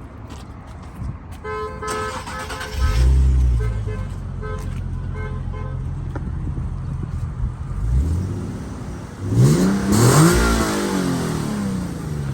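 A car's engine starts with a loud burst about three seconds in, just after a few short pitched chirps, then idles and is revved twice; the second rev, around ten seconds, is the loudest and rises and falls in pitch.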